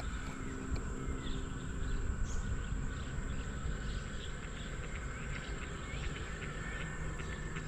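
Outdoor ambience: a steady high insect drone with many short, scattered bird chirps over a low rumble.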